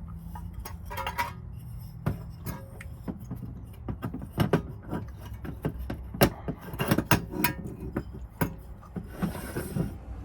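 Bezel being worked off a dial pressure gauge by hand: irregular clicks, taps and scraping of metal parts, over a steady low hum.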